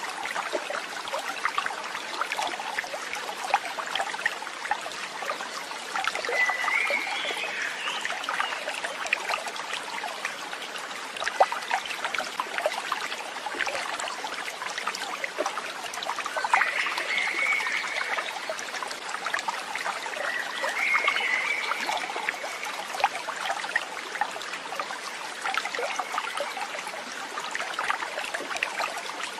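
A stream trickling and babbling steadily. Short high calls from an animal rise above it four times.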